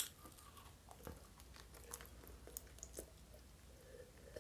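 Faint close-mic chewing of a mouthful of food: scattered soft clicks and ticks, with a sharper bite at the very start.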